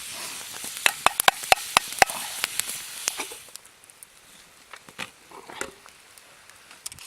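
Pork chops sizzling in a cast-iron pan over a campfire, with sharp spattering pops. About three seconds in the sizzle drops away, leaving only a few faint pops.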